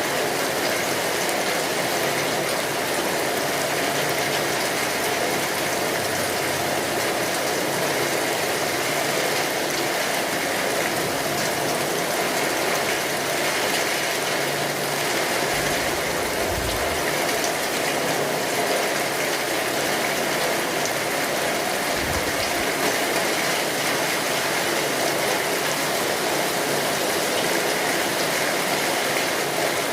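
Steady rain drumming on a tin roof, with a wood fire crackling in fine, scattered ticks. Two brief low rumbles come through, one about halfway through and a shorter one a few seconds later.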